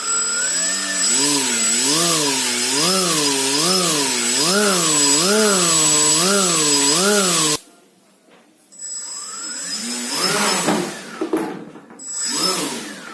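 A small electric motor humming with a pitch that wavers up and down about once a second, over a faint high whine, then cutting off abruptly. A shorter, rougher bout of the same hum follows after a brief pause.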